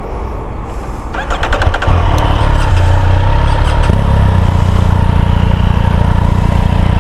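A motorcycle engine being started: a brief rapid clatter of the starter cranking about a second in, then the engine catches and settles into a steady idle.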